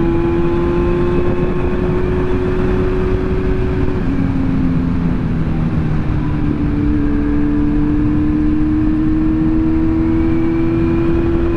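A 2022 Kawasaki Z900's inline-four engine pulling steadily under a rider, its note rising slowly. The pitch drops about four seconds in at an upshift, then rises again. Wind and road noise run underneath.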